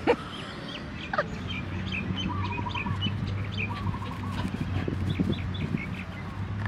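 Several birds chirping and calling: many short high chirps, a short chattering phrase repeated a few times, and one falling call about a second in, over a steady low hum.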